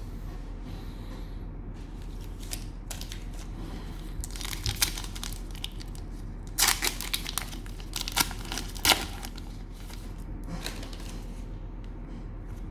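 Cellophane wrapper of a trading-card cello pack being torn open and crinkled, in a run of short crackles that are loudest about seven to nine seconds in.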